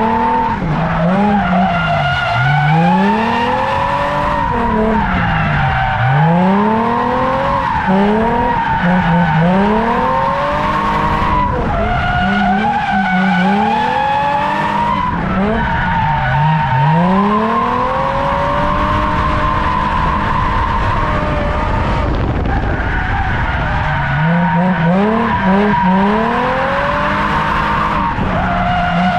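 Car drifting: the engine revs rise and fall every second or two under throttle, with a sustained tyre squeal running over it.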